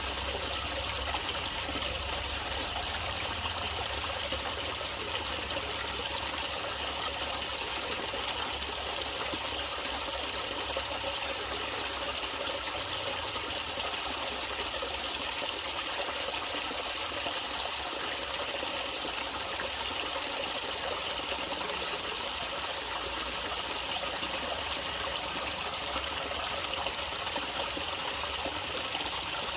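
Natural running water trickling and splashing steadily, with no let-up.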